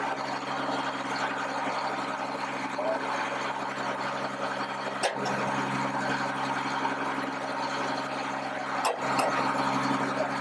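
Military truck engine idling steadily, with two sharp clicks, one about halfway through and one near the end.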